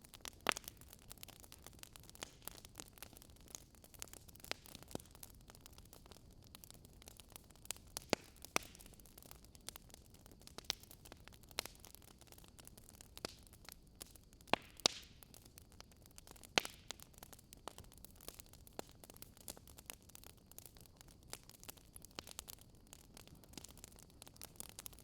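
Wood fire crackling: irregular sharp pops and snaps, a few louder ones, over a faint steady hiss.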